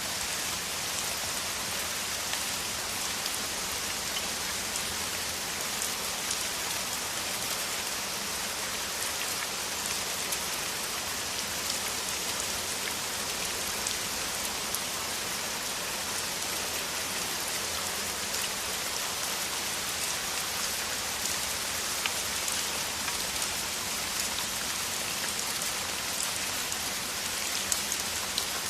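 Heavy rain falling steadily as a downpour, an even hiss with many individual drops ticking through it.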